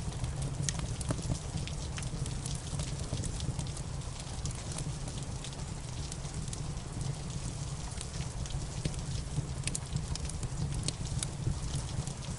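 Steady rain together with a crackling wood fire in a fireplace: a constant low rumble and hiss, with frequent sharp pops and crackles scattered throughout.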